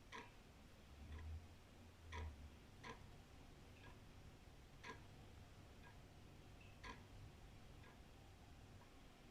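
Old wall clock ticking steadily, about one tick a second, with the strokes alternating louder and softer in a tick-tock pattern. A faint low rumble sits under the first few seconds.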